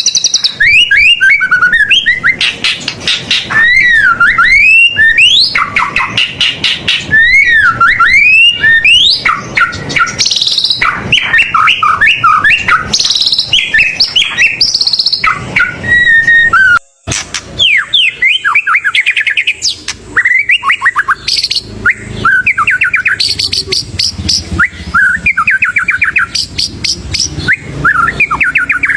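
White-rumped shama (murai batu) singing loudly and almost without pause: a fast run of varied whistles, sweeping notes, trills and rapid repeated notes, full of phrases mimicked from other birds. A sudden brief break interrupts it just past halfway.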